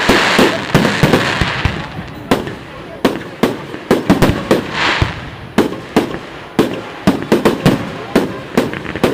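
Fireworks display: many sharp aerial shell bursts going off in quick, irregular succession. There are swells of crackling hiss at the start and again about five seconds in.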